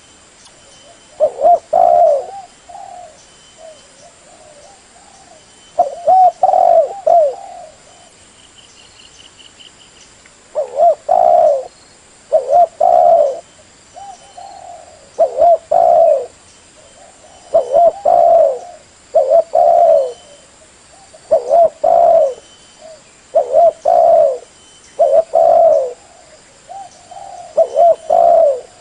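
Spotted dove cooing: repeated phrases of a few low, mellow coos. The phrases come with pauses of several seconds at first, then follow each other about every two seconds.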